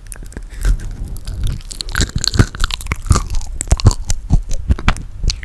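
Close-miked eating of toasted marshmallow: crisp crunching of the toasted outer crust and chewing, with many quick irregular crackles.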